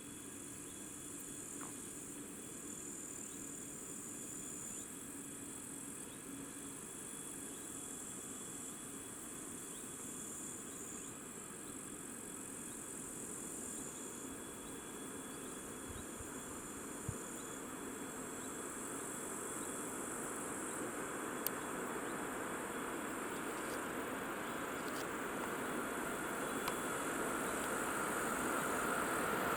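Insects chirping steadily in high, on-and-off trills, while the rumble of an approaching train grows steadily louder, most of all near the end. Two brief clicks in the middle.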